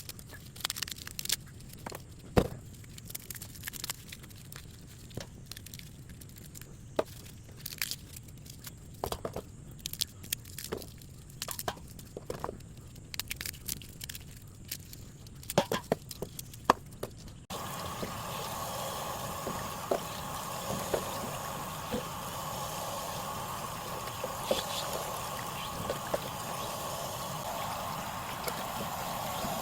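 Scattered sharp crackles and clicks, then after an abrupt cut about halfway, a steady hissing boil with small pops from a pot of water heating the chicken over a wood fire.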